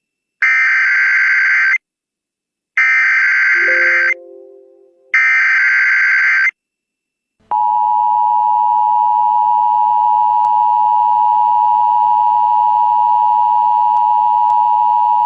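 Emergency Alert System signalling: three short digital data bursts, the SAME header that encodes the tornado warning, each about a second and a half with short gaps between, then the EAS attention signal, a steady two-tone alarm of about 853 and 960 Hz that starts about seven and a half seconds in and holds for about eight seconds.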